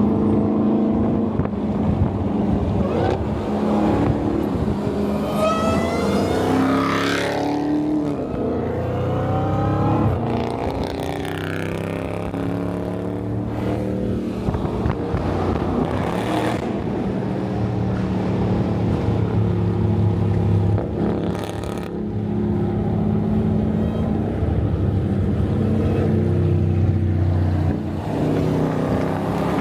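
Dodge Charger R/T's 5.7-litre Hemi V8 under way, its exhaust note climbing sharply in pitch as the car accelerates hard about six seconds in, then dropping back and running steadily at cruising speed.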